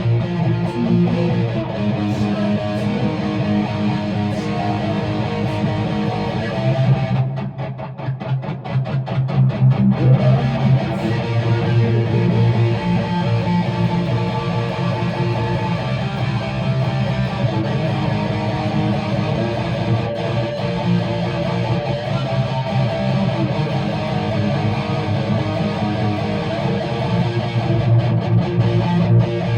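A guitar strummed and plucked in an instrumental passage, with a short lull in the strumming about seven seconds in.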